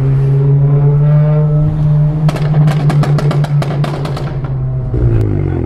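Volkswagen car engine held at steady high revs, with a rapid run of exhaust crackles and pops in the middle; the revs fall away near the end.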